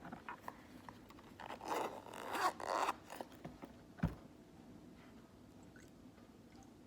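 Close-up handling sounds: a few short scraping, rustling strokes about two seconds in, then a single soft knock just after four seconds.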